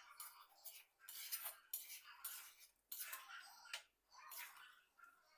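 Spoon scraping against a cooking pan while stirring, in short strokes about once a second.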